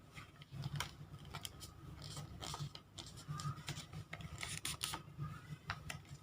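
A sheet of origami paper being folded and creased by hand: irregular crinkles, ticks and short rubbing sounds as the fold is pressed flat.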